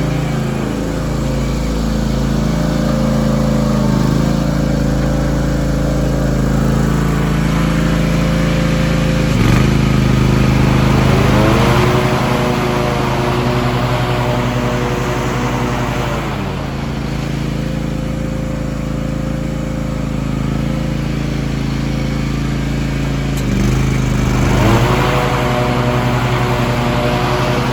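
Kawasaki FS730V twin-cylinder air-cooled engine of a John Deere X570 garden tractor running steadily, its pitch dipping and coming back up a few times as throttle or load changes.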